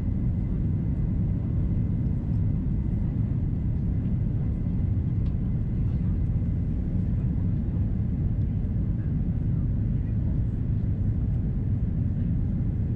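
Steady low rumble of an Airbus A330-300's Rolls-Royce Trent 700 engines and rushing air, heard inside the passenger cabin during descent, with a faint steady whine above it.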